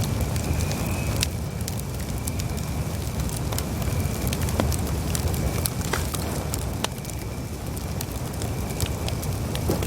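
Campfire burning, with a steady low rumble of flames and frequent irregular sharp crackles and pops from the burning wood. A faint thin high tone sits under it.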